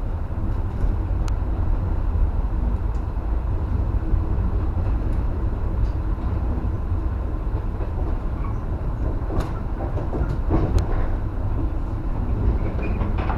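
JR West 115 series electric train running, heard from inside the front car: a steady low rumble of wheels on rail with a few sharp clicks as the wheels pass over rail joints and points.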